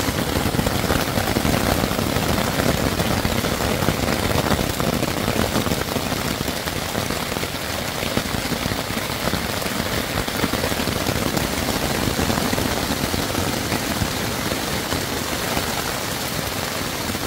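Heavy rain drumming steadily on a tent's fabric, heard from inside the tent.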